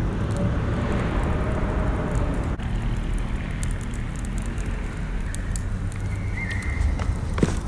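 Wood fire burning in a small grill-style fire pit, with scattered crackles and pops over a steady low rumble.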